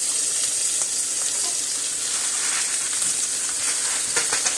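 Steaks frying in a hot pan: a steady sizzle with a dense crackle of small pops that grows busier in the second half. The heat is set too high, hot enough to burn the outside before the inside cooks.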